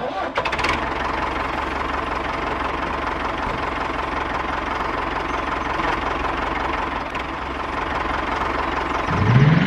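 Small diesel-type engine running steadily with a rapid knock, as of a mini tractor idling. Near the end a rising tone comes in.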